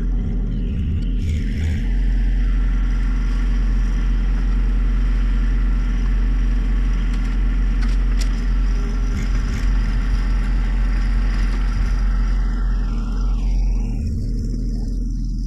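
John Deere 1025R sub-compact tractor's three-cylinder diesel engine running steadily.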